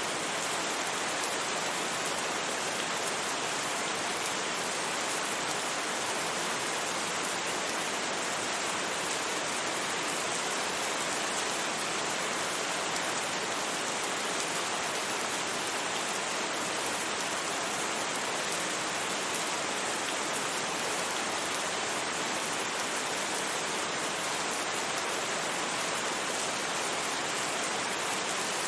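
Steady rain, an even hiss that holds unchanged throughout, with no separate drops or thunder standing out.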